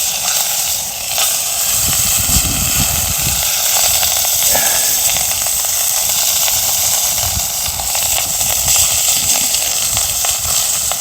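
Sea bass and aged kimchi sizzling and steaming on a hot iron plate over a wood fire, a steady loud hiss with scattered small crackles and a low irregular rumble underneath. The fish is still cooking, not yet done.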